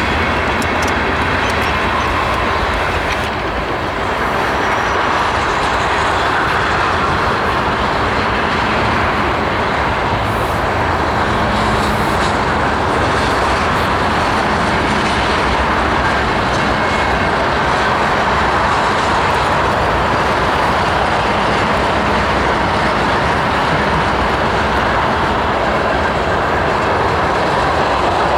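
Freight train rolling past on the rails, a steady loud rumble and rattle of wheels and cars with some clickety-clack.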